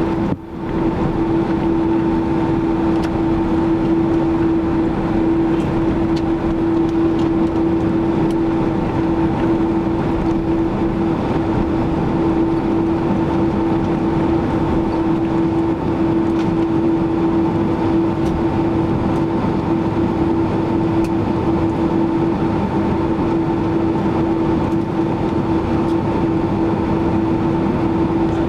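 Steady drone of a Boeing 767-300ER's jet engines and airflow heard inside the passenger cabin: a constant hum over even rumble, with a brief dip in level just after the start.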